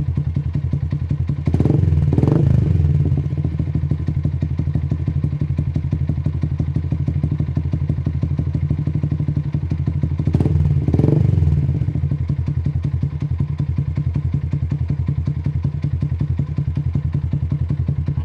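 Yamaha MX King 150's single-cylinder four-stroke engine idling through an aftermarket Racing WRX exhaust, with a quick, even pulsing note. The throttle is blipped twice, about one and a half seconds in and again about ten seconds in, each time a short rise and fall in revs.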